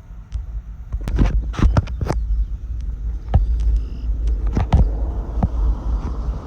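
Car on the road: a steady low road rumble, with a series of sharp clicks and knocks that cluster about a second in and again near the middle.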